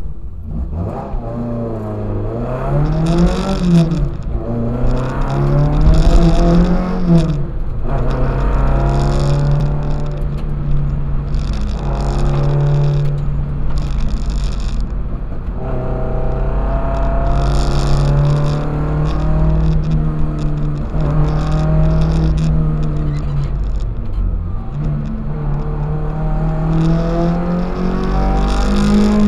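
Toyota 4A-GE twin-cam four-cylinder engine in a KE25 Corolla accelerating hard from the start, heard inside the car: revs climb and drop twice in the first several seconds as it shifts up. It then runs at steady high revs with a few brief dips.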